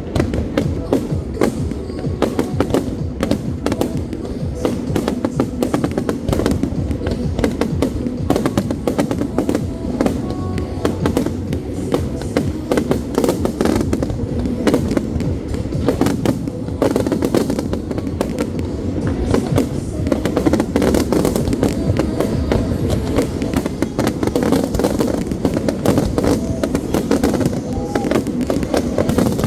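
Fireworks display: a dense, near-continuous run of bangs and crackles with no break, over music.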